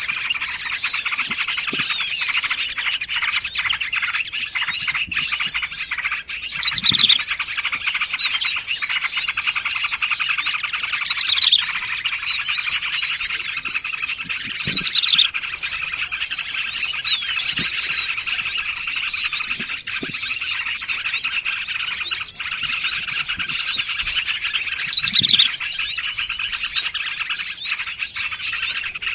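Dense chorus of several small songbirds singing and chattering over one another, with quick trills and sharp chirps, mixed as a bird-trapping lure call.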